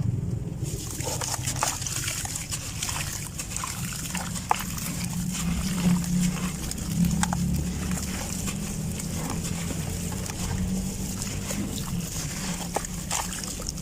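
Dry sand and dirt clumps crumbling, with many small crackles and crunches scattered through a gritty hiss, over a steady low rumble.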